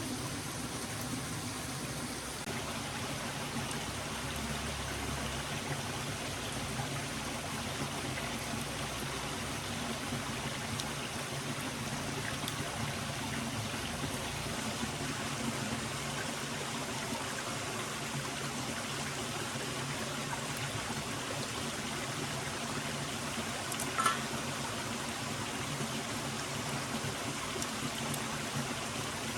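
Forest stream flowing steadily over rocks, a continuous rushing and trickling of water. One short sharp click cuts through it about four-fifths of the way in.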